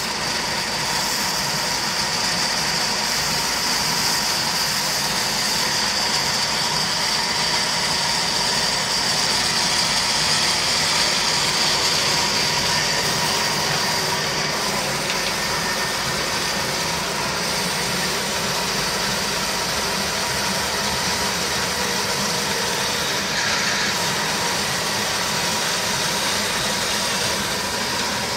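Old Ruston Hornsby diesel engine running steadily, a loud continuous engine sound with no change in speed.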